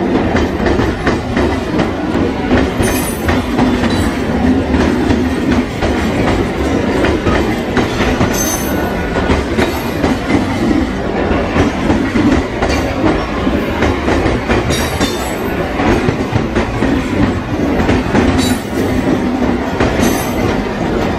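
Mumbai suburban electric multiple-unit local trains running past, wheels clattering steadily over the rail joints, with short high wheel squeals several times.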